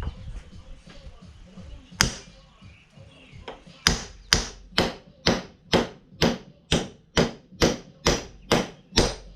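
Hammer striking metal: one blow, then a steady run of blows about two a second, each with a short metallic ring.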